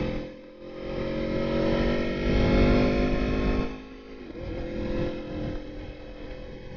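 Aprilia Tuono motorcycle engine under way, its pitch rising steadily as it accelerates for about three seconds, then dropping abruptly a little past halfway and running on at lower revs.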